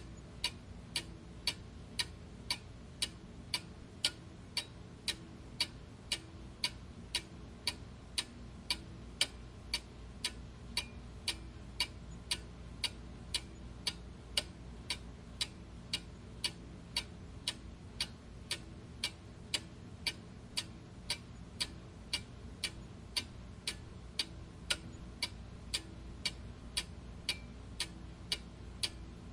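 Clock ticking steadily, about two evenly spaced ticks a second, over a faint low hum.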